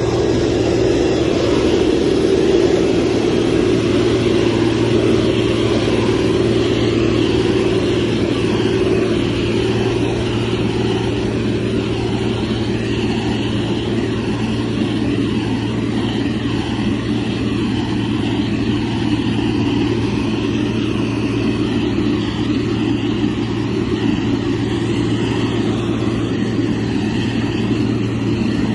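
Diesel engine of a motor grader running steadily, a constant low drone with engine noise over it, slightly louder about two seconds in.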